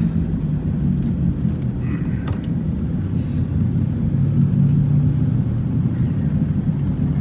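Steady low drone of a 1996 Ford Thunderbird's 4.6-litre V8 and its tyres, heard from inside the cabin while driving.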